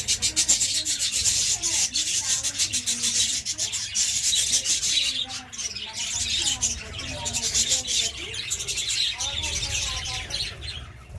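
Budgerigars chattering: a dense, continuous run of rapid scratchy chirps and clicks.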